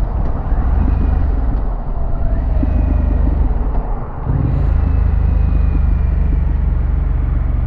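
Harley-Davidson Pan America's Revolution Max 1250 V-twin running at road speed, mixed with wind noise. The engine sound drops briefly about four seconds in, then picks up again with a short rise in pitch.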